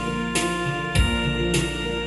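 Instrumental backing music with no singing: sustained keyboard chords over bass and drums, with a steady beat of a little under two strokes a second.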